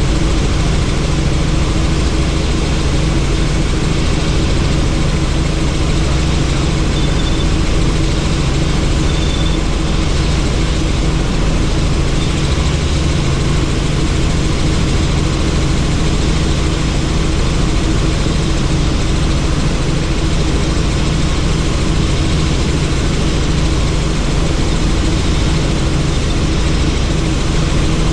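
Helicopter in flight heard from inside the cabin with the doors off: steady rotor and engine drone under a constant wind rush, with no change in level.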